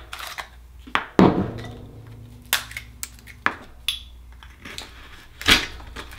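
Oysters being cracked and pried open: a series of sharp cracks and knocks of shell and metal tool, the loudest a little over a second in, followed by a short ringing tone.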